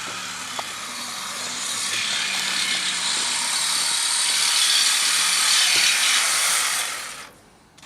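Reciprocating saw cutting metal: a harsh, rasping noise that builds louder over several seconds, then stops abruptly near the end.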